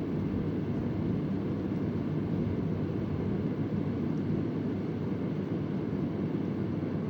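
Vintage Convair oscillating fan running steadily: an even, low rushing of moving air with no breaks.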